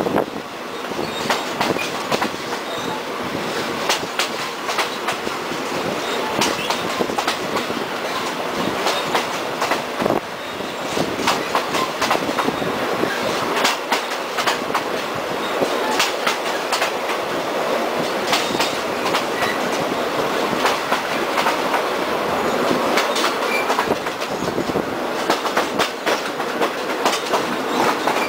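Locomotive-hauled express passenger train running on, a steady rumble of wheels on rail with repeated sharp clicks as the wheels pass over rail joints.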